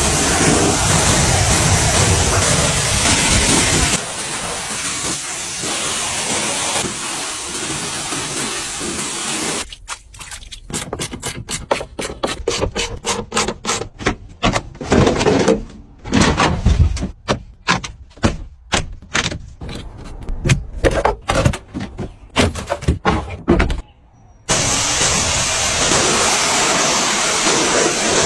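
Pressure washer spray hissing steadily, broken in the middle by a long run of short on-off bursts as the spray is triggered in quick pulses, then steady again near the end.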